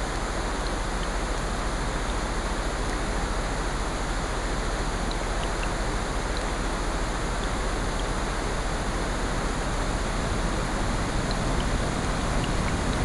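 Layered sleep ambience of rain, ocean surf and a fireplace: a steady, dense wash of rain and surf noise with faint, scattered small crackles, swelling slightly near the end.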